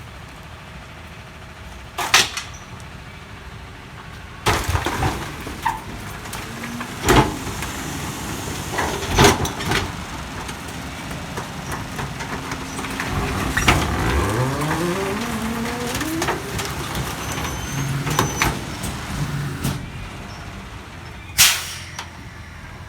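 McNeilus rear-loader garbage truck handling bulky waste: a series of loud bangs and crashes as items go into the hopper and are crushed, over the truck's running engine. Near the middle, the engine revs up with a rising pitch as the hydraulics work the load.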